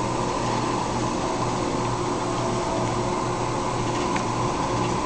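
Steady mechanical hum with an even hiss, like a fan running.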